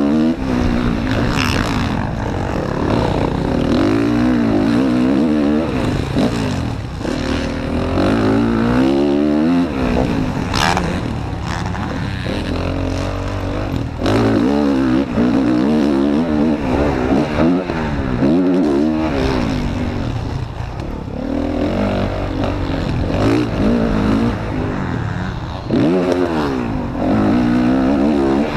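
Motocross bike's engine, heard up close from on board, revving up and falling away over and over as the bike accelerates, shifts and slows around the track. There is one sharp knock about ten and a half seconds in.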